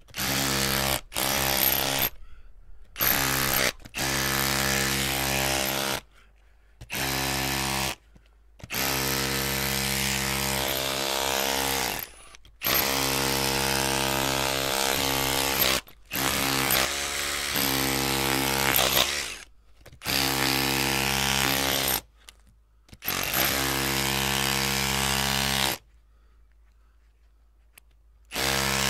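Electric drill running in repeated bursts of one to four seconds, its trigger pressed and released over and over with short pauses between. There is a longer pause near the end before it starts again.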